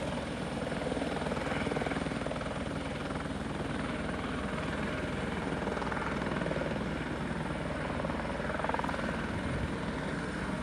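Airbus H120 (EC120B) light helicopter in flight: its single turboshaft engine and rotors running steadily, with a fast, even pulsing from the blades.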